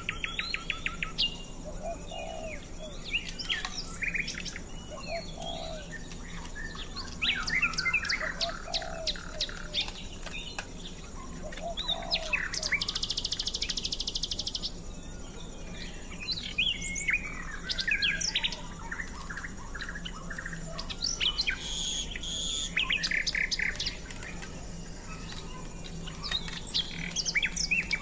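Small birds chirping and twittering in many short, varied calls, with a fast trill of rapidly repeated notes about halfway through.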